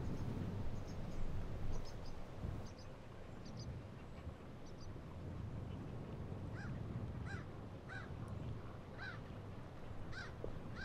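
Lakeside outdoor ambience: a steady low rumble of wind, with small high bird chirps, then from about halfway a bird giving a short repeated call about every two-thirds of a second.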